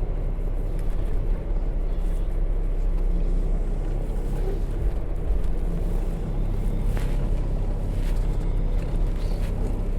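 Semi-truck diesel engine idling steadily, a low even rumble, with a couple of faint clicks in the second half.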